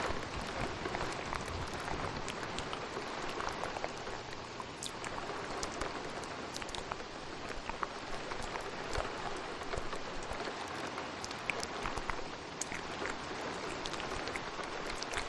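Steady rain with scattered small, sharp wet clicks over it: ASMR mouth sounds layered on a rainstorm recording.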